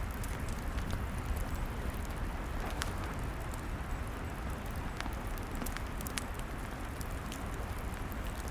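Log fire burning, a steady low rushing hiss with sparse, irregular sharp crackles and pops from the burning wood.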